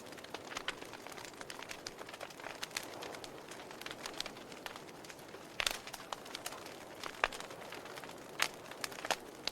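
Wood fire crackling in a fireplace: irregular sharp pops and snaps over a soft steady rush of flame, with two louder pops past the middle.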